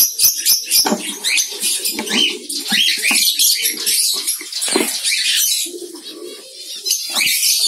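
Several young cockatiels calling: many short, overlapping chirps and raspy calls, with a few scattered clicks among them.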